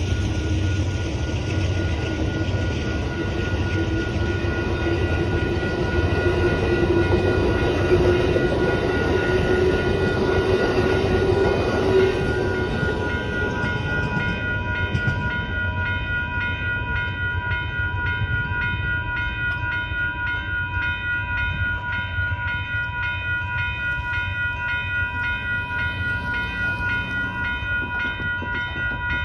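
Amtrak California Zephyr passenger cars rolling through a grade crossing, with wheel-on-rail rumble and clatter, until about halfway through. The crossing's electronic warning bells (a WCH type 1.5 and a General Signals type 2) ring in an even pulse throughout, standing out once the train has passed, and cut off at the very end as the gates go up.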